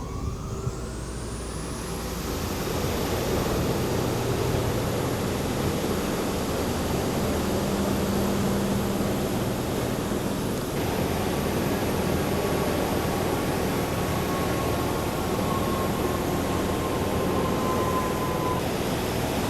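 A machine spinning up with a steeply rising whine over the first two seconds, then running steadily with a high whine over a noisy hum.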